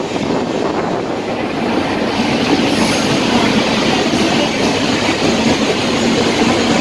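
Indian Railways express coach running at speed: a steady rumble and rattle of steel wheels on the rails, with a clickety-clack over the joints. About two and a half seconds in the noise gets louder and hissier as another train passes close alongside.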